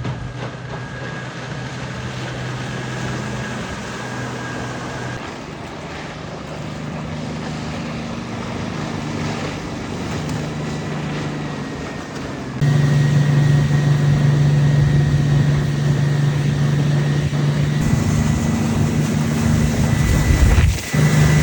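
Diesel outboard engine running steadily on a workboat underway, with a rush of water and wind noise. The sound steps up suddenly and grows louder about 13 seconds in.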